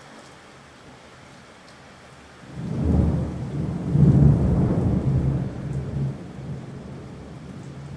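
Steady rain, then a rumble of thunder that rises sharply about two and a half seconds in, peaks a second or so later and rolls away slowly.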